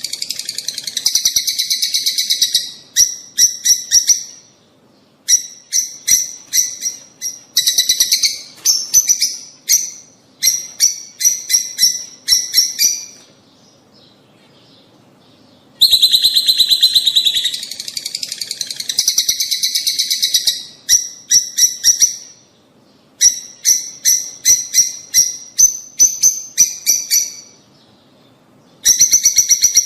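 Lovebirds chattering: fast runs of shrill, high chirps in bursts of a few seconds, broken by short pauses.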